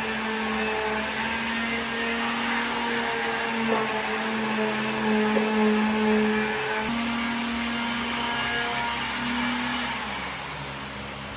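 Electric power tool motor running with a steady whine over a hiss, its pitch wavering slightly under load, then winding down in pitch near the end as it is switched off.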